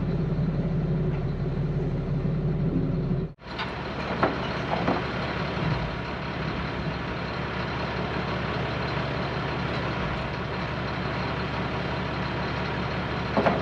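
Heavy vehicle engine running steadily at a low, even speed. The sound drops out briefly about three seconds in, and a couple of short knocks follow soon after.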